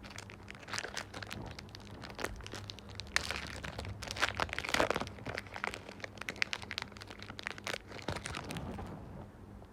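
Foil Pokémon booster pack wrapper crinkling and tearing as it is opened: a run of irregular crackles that is busiest about halfway through.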